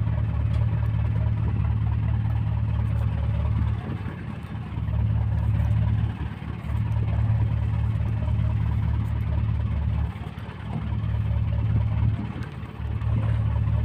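Steady low rumble that drops away briefly about four times, with a few faint clicks over it.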